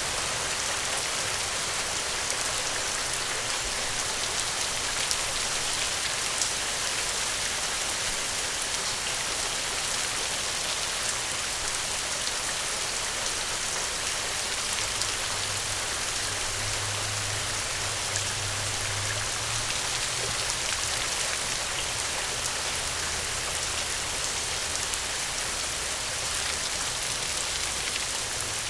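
Heavy rain falling steadily: an even, unbroken hiss dotted with fine drop ticks.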